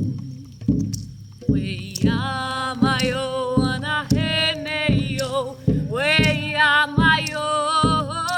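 A woman singing a shamanic chant in long wavering notes over a steady drumbeat of low strokes about twice a second; the voice comes in about a second and a half in, after a short gap.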